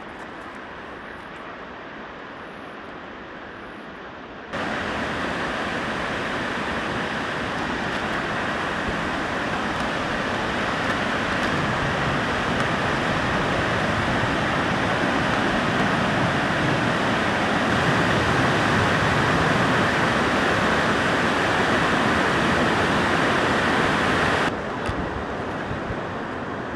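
Steady rushing of a fast river below a footbridge, jumping louder about four seconds in and dropping back shortly before the end.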